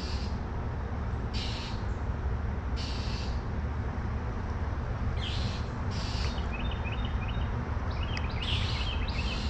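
Birds calling: short, high, buzzy calls repeated every second or two, with a few thin chirps near the end, over a steady background rush.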